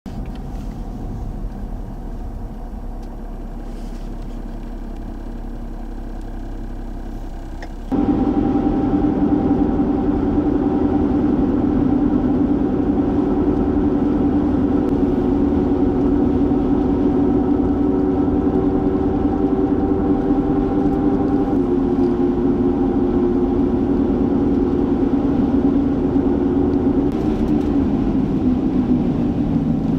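Low wind rumble for about eight seconds, then an abrupt cut to a louder, steady car engine hum with road noise.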